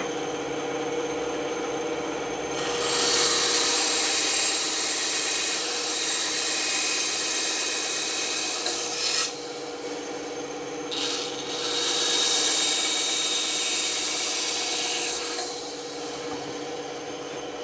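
Band saw running with a steady hum, its blade cutting through wood in two passes of several seconds each: the first about three seconds in, the second from about eleven to fifteen seconds in.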